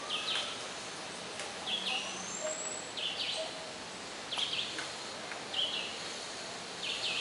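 A bird giving a short, high call over and over, about six times, roughly once every second and a half, over steady outdoor background noise.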